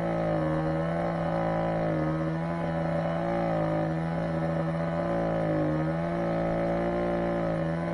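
Two-stroke chainsaw running at high revs, its pitch sagging a little now and then as it cuts through wood.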